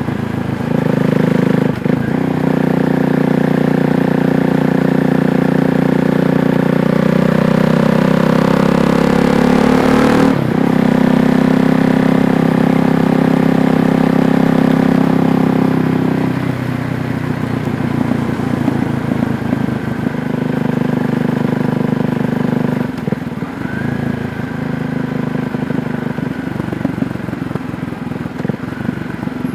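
KTM 390 Duke's single-cylinder engine running under load while riding, its note broken briefly about 2 s and again about 10 s in. After about 16 s it drops to a lower, quieter and more uneven note as the bike eases off.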